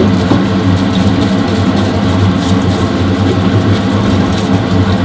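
A steady, loud, low mechanical hum, like an engine or machine running evenly.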